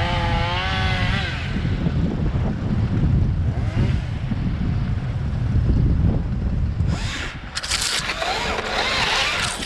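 Strong wind buffeting the microphone, making a heavy, ragged rumble throughout. A brief wavering tone sounds at the start, and from about seven seconds in there are loud bursts of hiss.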